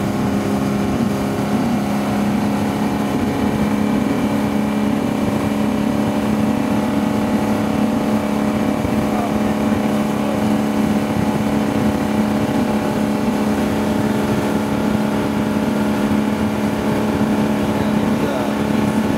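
Inboard ski boat engine running steadily at speed, a constant drone that holds the same pitch and level throughout.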